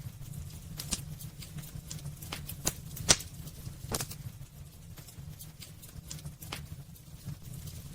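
Wood burning in a fireplace, crackling with irregular sharp pops over a low steady rumble. The strongest pops come about one, three and four seconds in, and fewer, softer ones follow.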